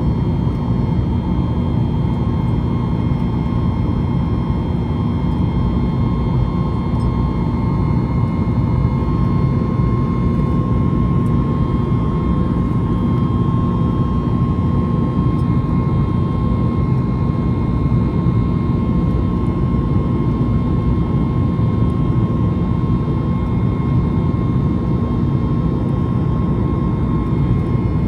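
Inside the cabin of a Boeing 737-8 MAX, its CFM LEAP-1B jet engines and the rush of air make a steady, loud noise with a few steady whining tones running through it.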